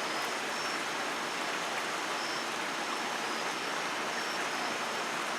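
Steady rain falling, not yet heavy, an even hiss with no thunder. A few faint high chirps come through now and then.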